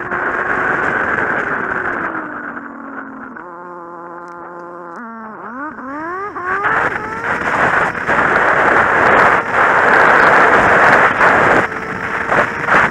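Kawasaki Z750 inline-four motorcycle engine dropping in revs, holding a low steady note, then accelerating hard through several quick upshifts (rising sweeps in pitch) about five seconds in. After that, wind buffeting the microphone at speed largely drowns the engine out.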